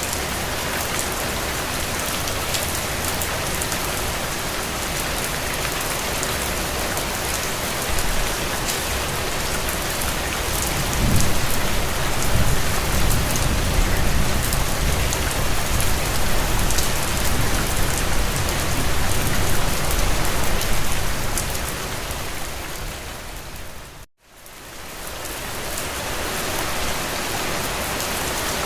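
Steady rain falling on a window. A low rumble swells up about eleven seconds in and holds for about ten seconds. A little before the end, the rain fades out to a moment of silence and fades back in.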